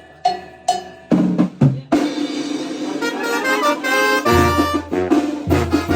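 A band striking up a chilena: a few sharp percussive hits and drum strokes, then a melody enters about three seconds in, with a steady bass joining a second later.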